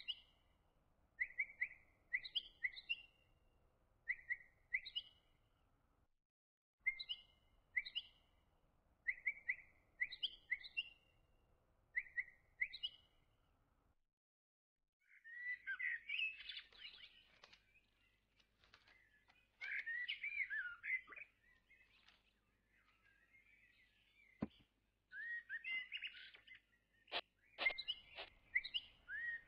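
Birdsong: short repeated chirps in little groups, broken by brief pauses about six and fourteen seconds in, then busier twittering from about halfway, with a few sharp clicks near the end.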